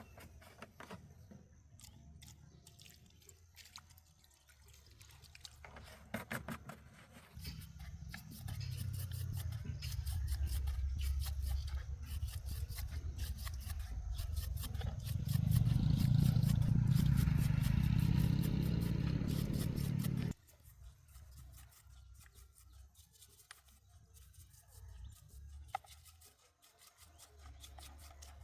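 A machine runs with a low, steady hum, starting about 7 seconds in. It gets louder about 15 seconds in and cuts off abruptly about 20 seconds in. Scattered light clicks come before and after it.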